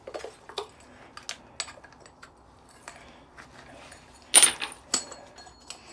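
Small metal parts of decking lights clicking and clinking as they are handled and taken apart, with one louder metallic clank about three-quarters of the way in that rings briefly.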